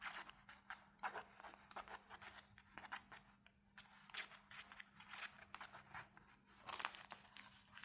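Faint handling sounds from working with art materials on a desk: scattered small clicks, taps and rustles, over a faint steady low hum.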